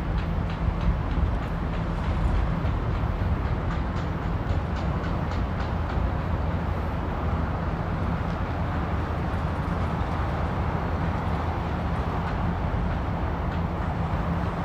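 Steady low mechanical rumble with a constant droning hum, and a few faint clicks in the first seconds.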